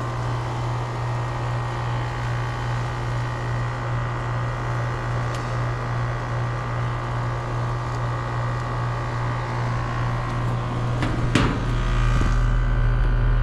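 Air-conditioner condensing unit running with a steady low hum and several steady tones, under high head pressure. About eleven seconds in there is a short sharp rattle, and after it the low hum grows louder.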